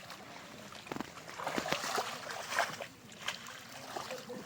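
Water splashing and sloshing in irregular surges, from handling or wading in shallow water while net fishing.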